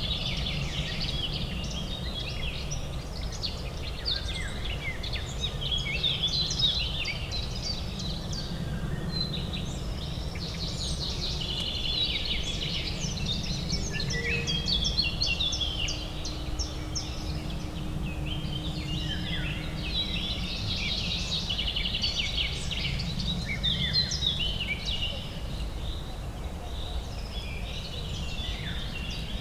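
Birdsong chorus of many overlapping chirps and trills over a steady low urban hum.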